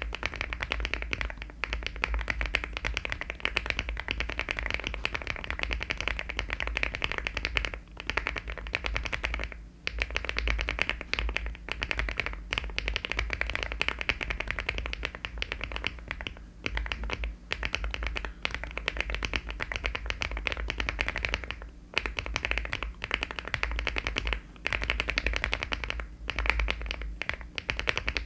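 Fast typing on a mechanical keyboard: HMX switches in a LEOBOG Hi75 aluminium-case keyboard with Cherry-profile keycaps, a dense run of key clacks with a few brief pauses.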